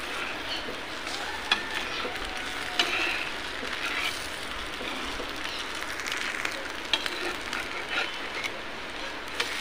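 Poha and semolina cheela batter sizzling in oil on a non-stick pan. A few sharp clicks and scrapes come from a spatula being worked under it to loosen it for flipping.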